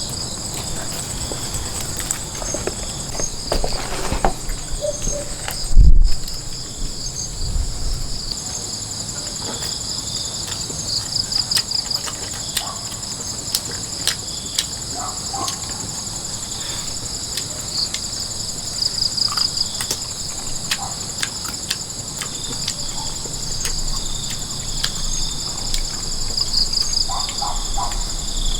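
Insects, crickets among them, chirping and trilling steadily in a high, pulsing chorus, with scattered light clicks and one loud thump about six seconds in.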